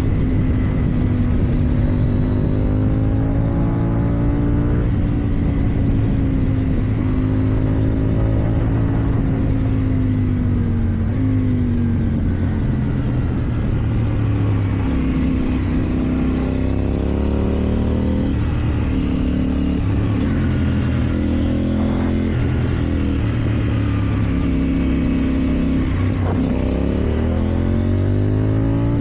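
KTM Duke 790's parallel-twin engine through an Akrapovic exhaust, running under load while riding. The engine note holds steady for the first ten seconds or so, dips and picks up again through the middle, then falls and climbs sharply near the end as the bike accelerates hard.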